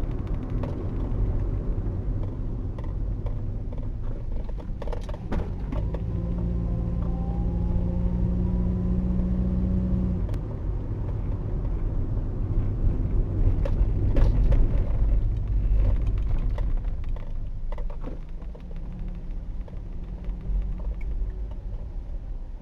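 Car driving on a road: a steady low road and engine rumble with a few short knocks. A steady low hum sounds for about four seconds in the middle, with a faint rising whine alongside it.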